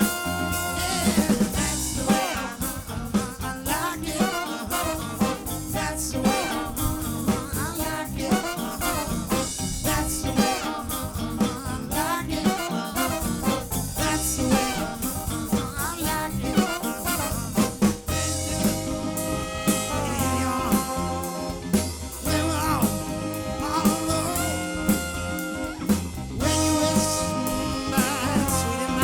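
Live soul band playing a song with drum kit and singing, the drums keeping a steady beat.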